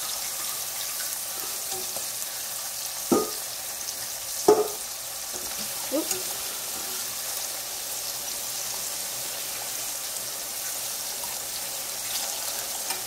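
Sliced plantains shallow-frying in oil in a small saucepan: a steady sizzle while a fork turns the slices. A few short sharp sounds stand out, about three, four and a half and six seconds in.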